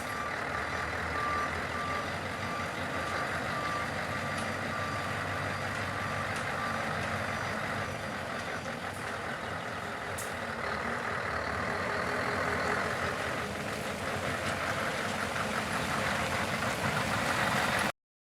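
Scania R164 truck's V8 diesel engine running steadily, with a reversing alarm beeping in regular pulses for the first six seconds or so. The sound cuts off suddenly near the end.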